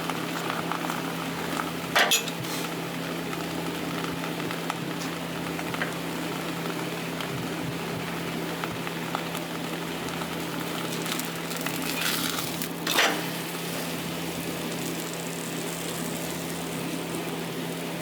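Buckwheat pancake frying in oil in a pan, a steady sizzle over a low constant hum. A utensil strikes the pan sharply about two seconds in, and again after a brief scrape about thirteen seconds in.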